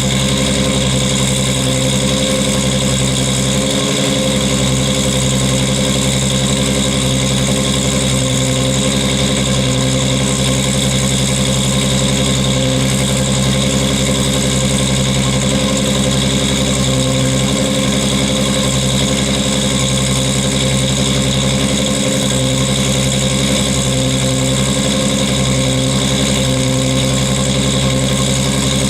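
1998 Toyota Supra Turbo's 2JZ-GTE straight-six idling steadily through an HKS titanium racing exhaust with its silencer fitted, warming up after a cold start. The pitch and loudness hold even, with no revving.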